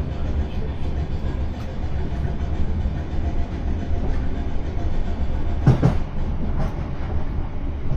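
Class 455 electric multiple unit running, heard from inside the carriage: a steady low rumble of wheels and traction, with a sharp double knock about six seconds in.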